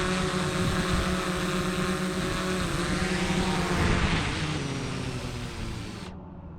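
Tractor engine running steadily, its pitch dropping about halfway through as it goes past, then fading as it moves away.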